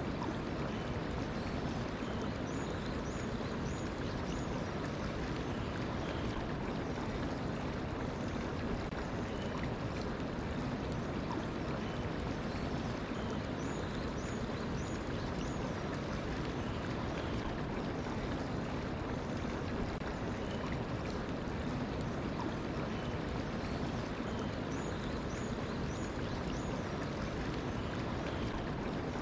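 Mountain stream flowing with a steady rush of water. A small bird sings a short high phrase of about four quick notes three times, roughly ten seconds apart, with fainter chirps in between.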